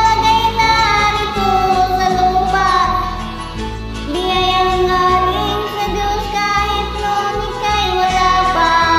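Karaoke singing over a backing track: a voice holding long, slightly wavering notes, stepping to a new pitch a few times.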